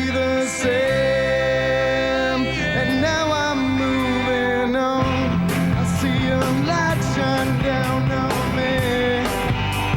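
Rock band playing the opening of a song: sustained melodic guitar lines, with drums and cymbal hits coming in about five seconds in at roughly two strokes a second.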